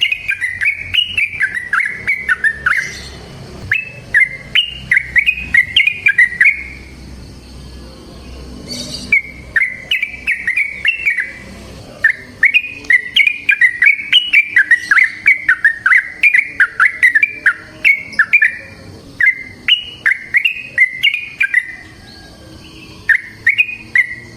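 Yellow-vented bulbul (trucukan) singing its long 'ropel' song: runs of quick, bubbly chirping notes, each run a few seconds long, broken by short pauses.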